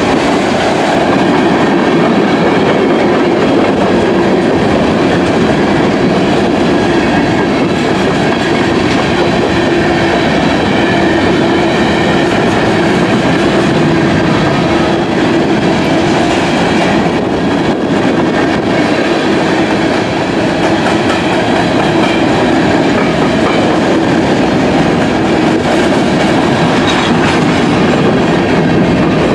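Freight train's tank cars and covered hopper cars rolling past close by: steel wheels on the rails making a steady, loud running noise that carries on without a break.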